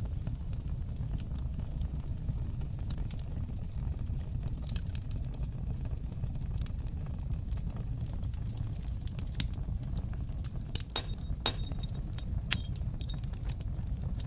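Fire crackling in a stone fireplace: a steady low rumble of flames with scattered sharp pops and snaps. The pops come thicker near the end, including one loud snap.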